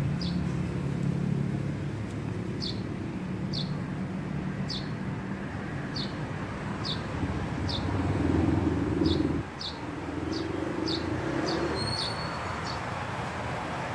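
A small bird chirping, short high chirps about once a second, over a steady low rumble.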